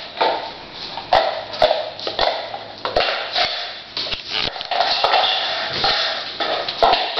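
Irregular taps, scratches and rustling as kittens scramble about and knock a basket around.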